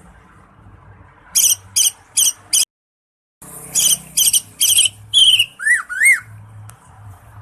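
Cucak ijo (green leafbird) singing: four quick repeated notes, a brief cut-out, then a faster run of notes ending in two arched whistles.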